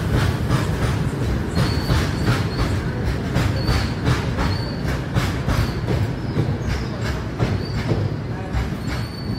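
Goods train wagons rolling past close by: a steady heavy rumble with a repeated clatter of wheels over rail joints, and short high-pitched wheel squeals several times.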